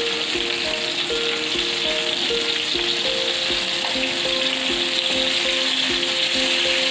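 Stuffed pointed gourds (parwal) sizzling steadily as they fry in hot mustard oil in a pan, with a simple background melody playing over it.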